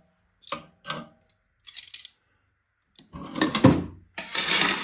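Steel hand wrenches clinking and rattling against each other as they are picked out of a tool drawer and handled: a few light clinks, then a louder clatter and scrape about three seconds in.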